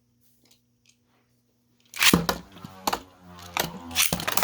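Beyblade spinning tops clattering and striking each other in a plastic stadium: a burst of sharp plastic cracks and rattling that starts about halfway through, after a near-silent first half.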